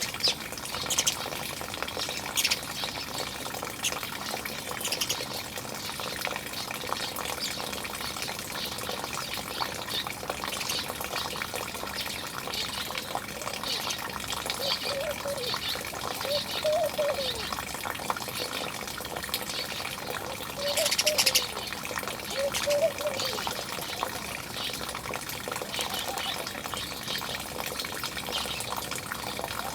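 Steady running water with frequent short bird chirps over it, and a louder harsh call about 21 seconds in.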